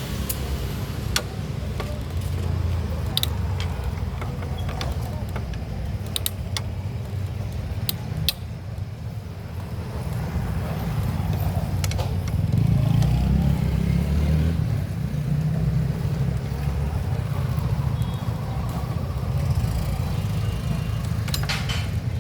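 A steady low engine rumble from a motor vehicle, swelling for a few seconds about halfway through. Scattered sharp metallic clicks of tools and engine parts are heard over it.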